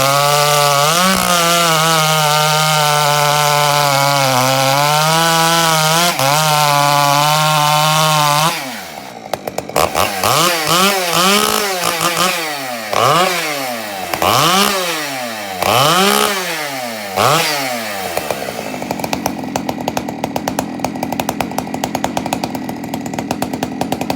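Husqvarna 372XP two-stroke chainsaw with a loud home-built modified muffler, held at full throttle in a cut for about eight seconds, then blipped up and down about five times before settling to idle.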